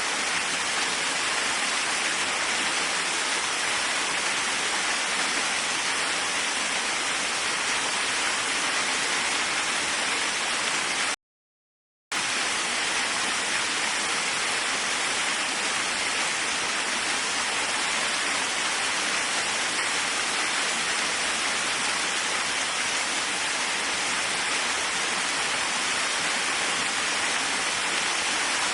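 Waterfall rushing as a steady, even wash of falling water. About 11 seconds in it cuts out to silence for about a second, then resumes unchanged.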